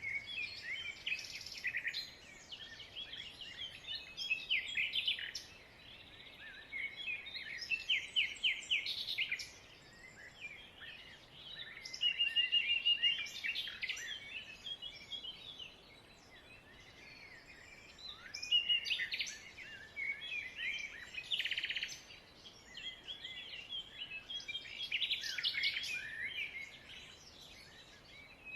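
A flock of small birds chirping and twittering together, the chatter swelling and dying down every few seconds, with one steady trill a little before halfway.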